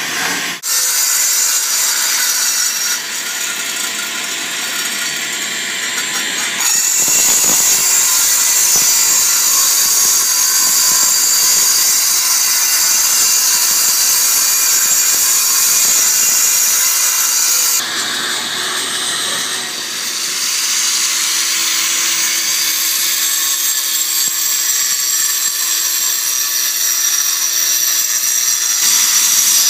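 Power saw cutting concrete: a loud, steady, high-pitched cutting noise that changes level abruptly several times, loudest from about seven seconds in until about eighteen seconds in.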